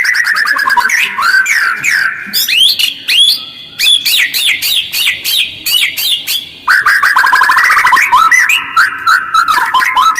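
White-rumped shama (murai batu) singing: rough-toned, fast runs of rapidly repeated sweeping notes, roughly ten a second, broken by short pauses between phrases.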